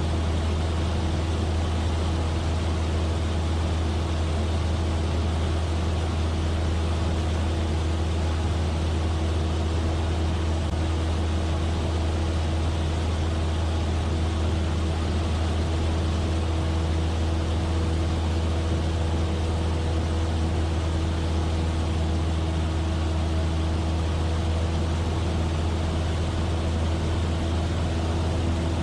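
Cessna 172F's Continental O-300 six-cylinder engine and propeller running steadily in cruise, heard from inside the cabin as a constant low drone with a steady hum above it.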